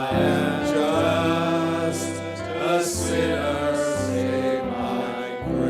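Men's voices singing a slow gospel song with instrumental accompaniment, drawing out long held notes over chords that change every second or so.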